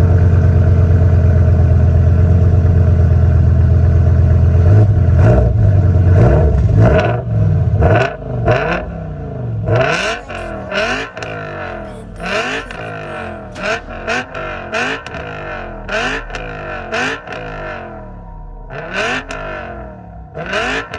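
BMW E60 M5's 5.0-litre V10, with catless headers and valved exhaust, idling loud and steady. From about five seconds in it is revved in a quick series of throttle blips, the pitch jumping up and dropping back roughly once a second.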